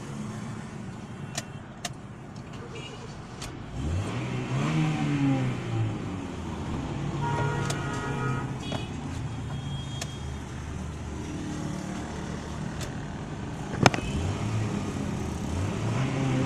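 Honda City's four-cylinder engine idling steadily, heard from inside the cabin. It is revved up and back down about four seconds in and again near the end, with a sharp click just before the second rev.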